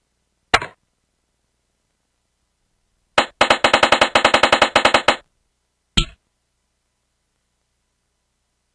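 Cartoon computer sound effects: a single click, then a fast run of clicks for about two seconds like typing on a keyboard, then one more click.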